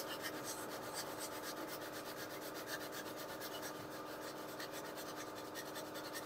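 Coarse 36-grit sandpaper rubbed by hand over cured Duraglass short-strand fiberglass filler on a motorcycle fuel tank: a faint, steady scraping, knocking down the filler's high spots.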